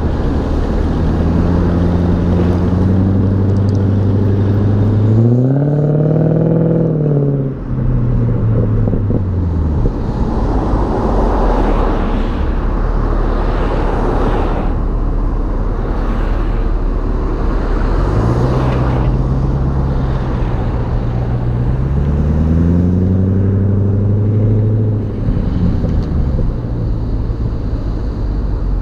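BMW E39 540i's 4.4-litre V8 exhaust while driving, heard from the rear of the car. The engine note climbs twice under acceleration, once near the start and again later, and each time it falls away abruptly. In between comes a stretch of rushing wind and road noise.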